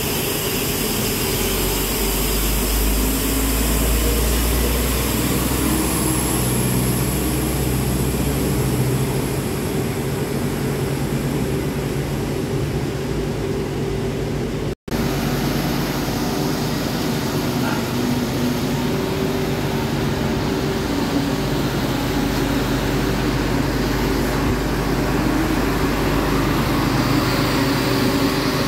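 Diesel railcar engine running at the platform with a steady low drone. About halfway the sound cuts out for an instant, then a multiple unit rolls slowly along the platform, its running noise growing louder near the end.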